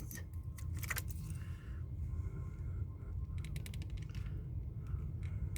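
Small light clicks and rattles of craft pieces being handled and picked out, with a quick run of clicks about three and a half seconds in, over a low steady hum.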